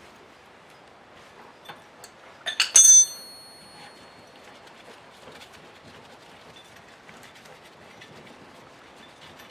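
A quick run of metal-on-metal clinks about two and a half seconds in, the last one ringing briefly with a clear high tone, like a steel tool or part knocked against metal. Otherwise faint handling noise with scattered small ticks.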